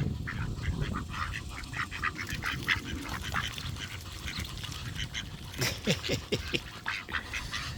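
A flock of ducks calling and quacking at close range as they crowd in to be fed, with many short sharp sounds and a quick run of calls about six seconds in.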